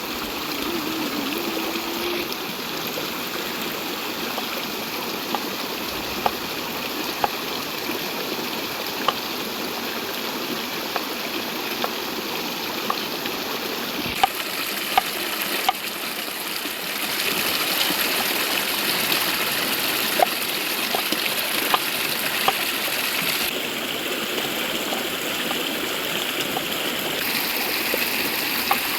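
Steady rush of running river water, with scattered sharp crackles and pops throughout. The rushing grows a little louder and brighter about two-thirds of the way in.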